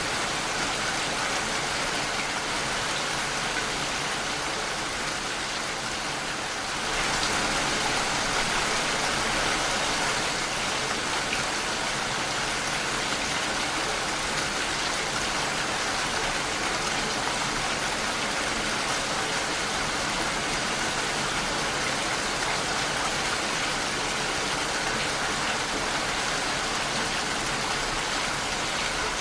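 Steady rain falling against a window pane, a continuous even hiss of many drops; it grows a little louder about seven seconds in.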